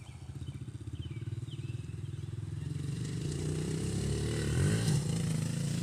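Honda dirt bike engine running, getting steadily louder, with a brief rev about three-quarters of the way through.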